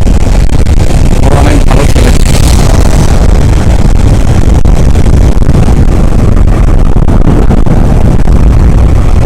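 Steady, loud rumble of a motorcycle riding in city traffic: engine and road noise with wind buffeting the microphone.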